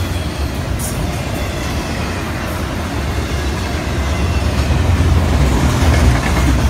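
Train rolling past on the rails: a steady low rumble with wheel noise on the track, growing a little louder about four seconds in.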